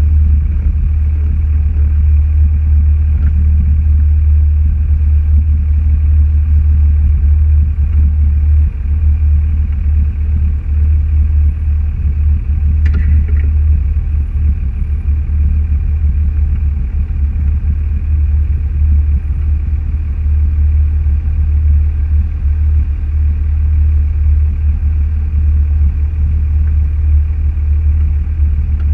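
A car driving: steady low engine and road rumble, with one brief higher-pitched squeak a little before halfway.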